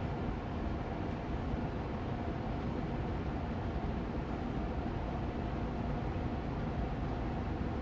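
Austin Air Allergy Machine air purifier fan running steadily on medium speed: an even whooshing hum, heaviest in the low end, with a faint steady tone in it.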